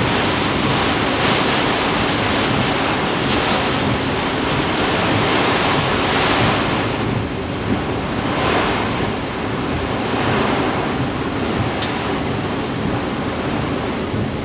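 Heavy, hurricane-driven surf breaking, with strong wind buffeting the microphone; the rushing noise swells and eases. A short, sharp click sounds near the end.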